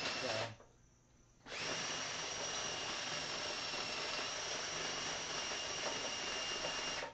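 Cordless drill spinning the hydraulic pump of a towable backhoe, with a steady high whine. It runs briefly, stops for about a second, then starts again and runs steadily until it cuts off near the end.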